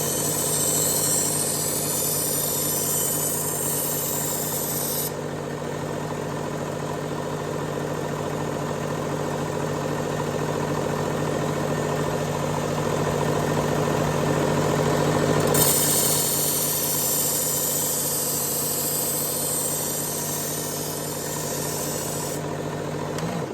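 Work Sharp electric belt knife sharpener running with a steady motor hum. A knife edge is being ground on its coarse X200 abrasive belt, adding a grinding hiss for the first five seconds and again for about seven seconds later on, while the edge is reprofiled. The motor cuts off at the very end.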